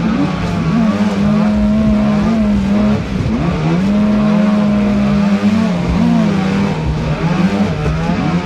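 Battery-powered creek boat's electric motor whining, its pitch repeatedly dropping and rising again as the throttle changes, over the rush of fast floodwater.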